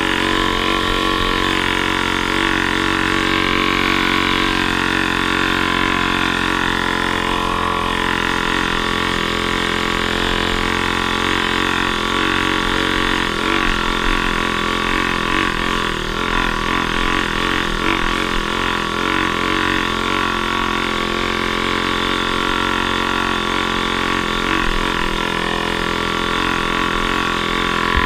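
Off-road vehicle engine running steadily at an even speed, with no clear revving.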